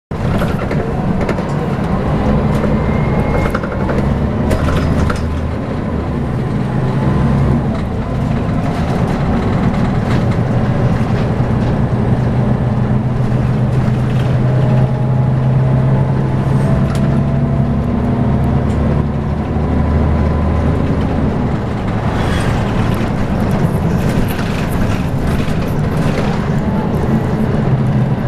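Scania L94UB single-deck bus engine running under way, its low note dropping and picking up several times as the bus changes speed, with scattered rattles and clicks.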